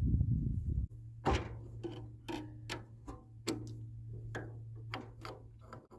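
Pliers clicking and tapping on metal while working a wing nut off a garden tractor tiller's PTO mounting: about a dozen irregular sharp ticks. A low rumble fills the first second, and a steady low hum runs under the clicks.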